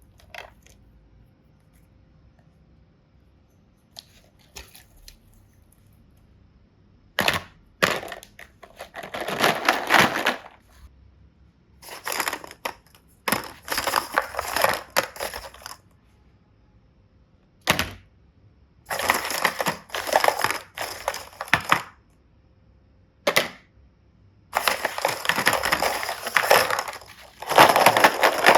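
Crackling, crinkling slime ASMR handling noise: several bursts of one to three seconds, with sharp clicks in between, starting about a quarter of the way in.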